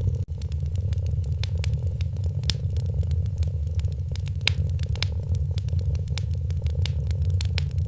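Wood fire crackling with irregular sharp pops over a cat's steady low purr. The sound cuts out for an instant about a quarter second in.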